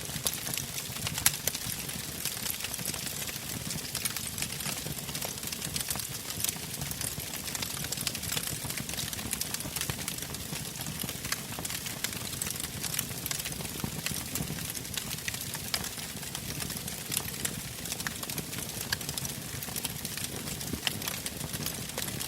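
Wood fire burning in a fireplace: frequent irregular crackles and pops over a low, steady rumble of the flames.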